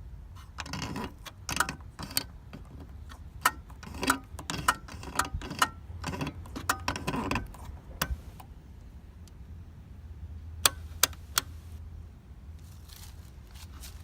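Clicks, knocks and small rattles from something being handled, irregular over the first half. Then, a little past the middle, three sharp clicks come in quick succession, all over a low steady hum.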